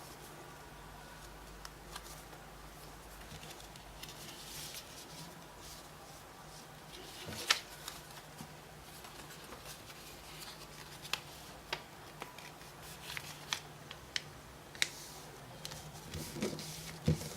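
Paper being folded by hand for origami: soft rustling with sharp crinkling clicks as creases are pressed, more of them in the second half, over a faint steady hum. The sound cuts off suddenly at the end.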